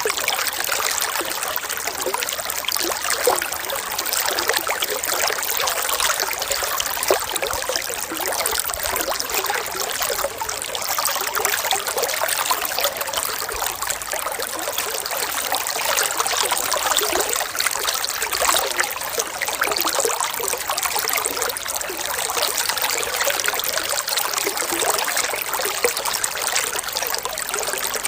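Running water trickling steadily, like a small stream: continuous light splashing with little low rumble.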